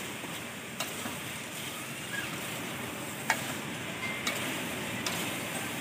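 Fish and tomato sizzling as they fry in a steel wok, stirred with a metal spoon, with a few sharp clinks of the spoon against the pan.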